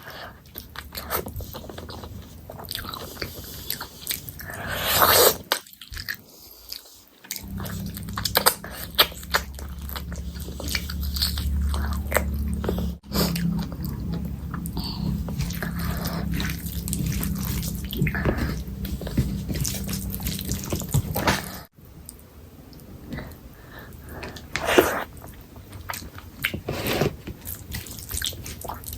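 Close-miked eating sounds: biting and chewing chicken curry, with many short mouth clicks throughout. A low steady hum comes in about a quarter of the way through and cuts off suddenly after about 14 seconds.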